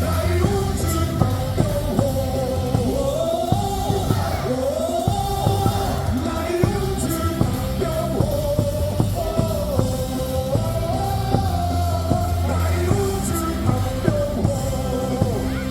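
Baseball cheer song with a rock beat playing loudly over the stadium speakers, with a sung melody and yells along with it.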